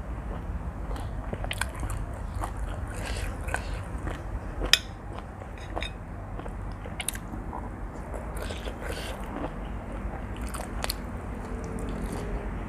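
A person chewing and eating a seafood instant-noodle dish close to the microphone: wet mouth clicks and soft crunching, with one sharp click about five seconds in.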